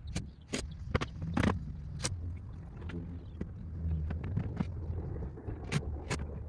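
Irregular sharp knocks and clicks from work on a wooden fence, several close together at first and two more near the end, over a low steady rumble.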